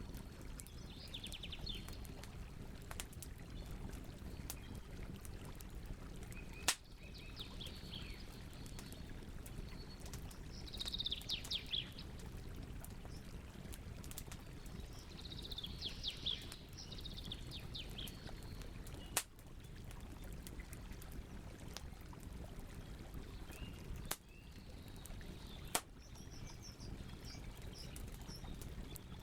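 Campfire burning with a steady low rumble and a few sharp, isolated pops from the wood. A bird sings several short bursts of rapid, falling chirps over it.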